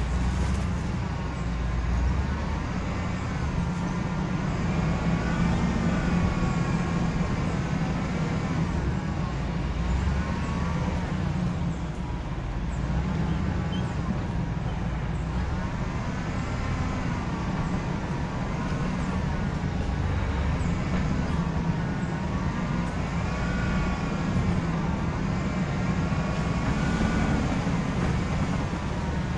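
A vehicle driving: a steady low engine and road rumble, with a whine that rises and falls in pitch every few seconds as the speed changes.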